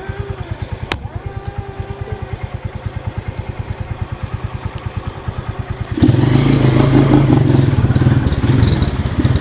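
Motorcycle engine idling with a steady pulsing beat, with a sharp click about a second in. About six seconds in it turns abruptly much louder as the engine is revved and the bike pulls away.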